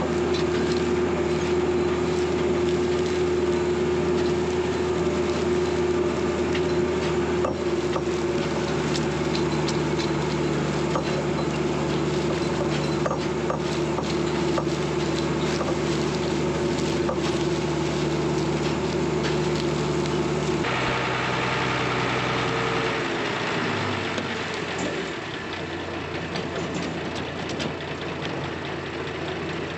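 Farm machinery engine running steadily at speed with a constant hum. About two-thirds of the way through the sound changes abruptly, and the engine then runs lower and quieter, its pitch dropping over a few seconds.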